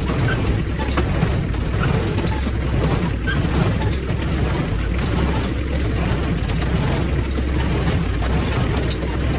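A tractor-driven New Holland Hayliner 65 hay baler running steadily, with a rhythmic pulse about once a second.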